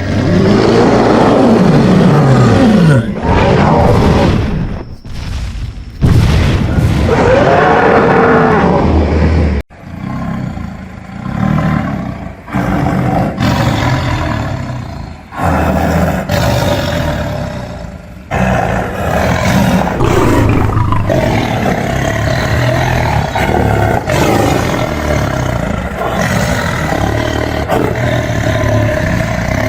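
A string of loud animal roars played one after another, with abrupt cuts between them; some calls sweep down in pitch, others rise and fall.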